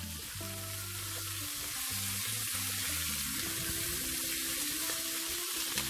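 Salted pork and mangetout sizzling as they stir-fry in a hot wok, a steady frying hiss, with a spatula turning the food partway through.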